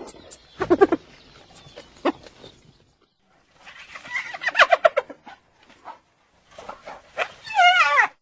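Spotted hyena giggling: a few short high calls, then bursts of rapid repeated yelping notes about four seconds in and again near the end, the last a quick wavering run that cuts off suddenly.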